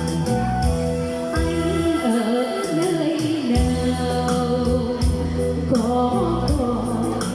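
A song played live: a singer's melody over electronic organ (keyboard) accompaniment with a steady drum beat.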